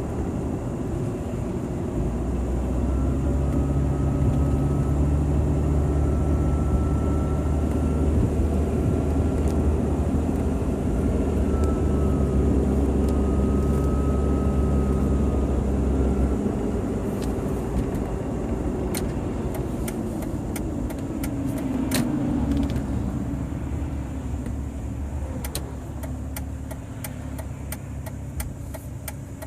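Jeep Grand Cherokee WJ's 4.0L straight-six running while driving, with a thin high whistle wavering over the engine and road sound for much of the first half, then stopping; the owner suspects a failing water pump. Sharp clicks follow in the second half, regular near the end.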